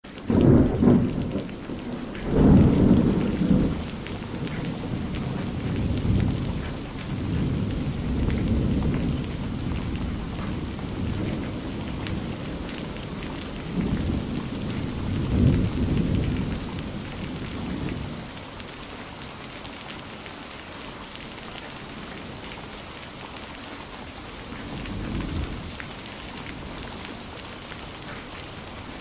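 Steady rain falling, with thunder rumbling again and again, loudest in the first few seconds. In the second half there is a stretch of rain alone before another rumble.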